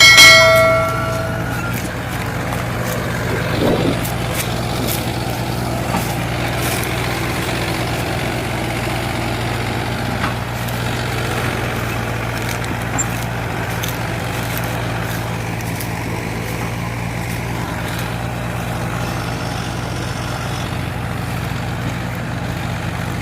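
Heavy vehicle engine running steadily at an even speed. Near the start a loud pitched tone with several overtones sounds for about a second and a half.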